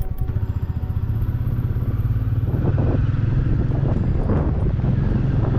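Motorcycle engine running under way, growing louder over the first two or three seconds as it picks up speed, then holding steady.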